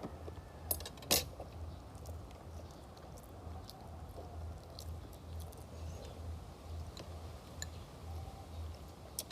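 Close-up mouth chewing food, with two sharp clicks or crunches about a second in, then softer chewing with small scattered ticks.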